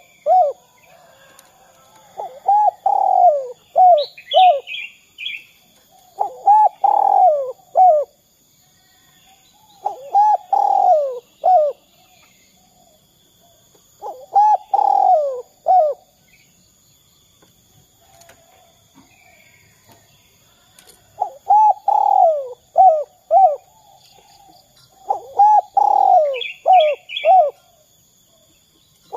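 Spotted dove (derkuku) cooing: a phrase of several curved coo notes repeated about every four seconds, each phrase ending in short notes. A smaller bird chirps briefly in a higher voice twice, about four seconds in and near the end.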